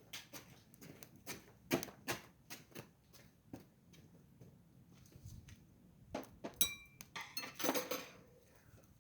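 Metal utensils clinking and knocking irregularly, with one brief ringing clink about six and a half seconds in and a busier clatter just after.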